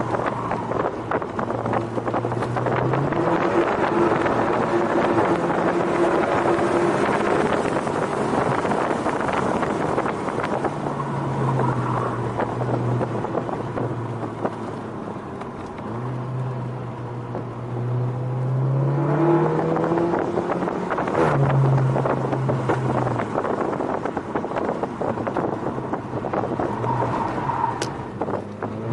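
Turbocharged four-cylinder engine of a SEAT Leon Cupra heard from inside the cabin under hard driving. Its pitch climbs several times and drops back at each gear change or lift, over steady wind and road noise.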